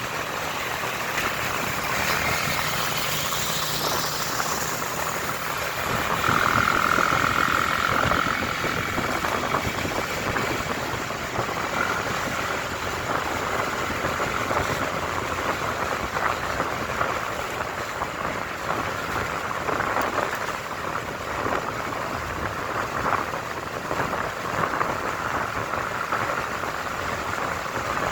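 Motorcycle riding on the road: engine running under a steady rush of wind and road noise.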